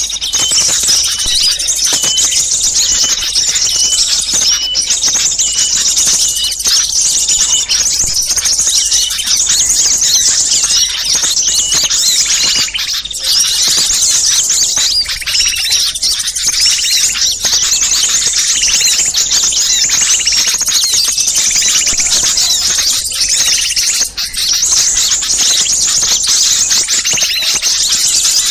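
A dense, busy chorus of many small songbirds chirping and trilling high and fast without pause: a bird-lure recording of noisy small birds, played to draw wild small birds in.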